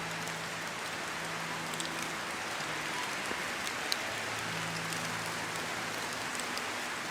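Steady rainstorm: a dense, even hiss of rain on surfaces with scattered sharp drop ticks. Faint low held tones sound beneath it, coming and going every second or two.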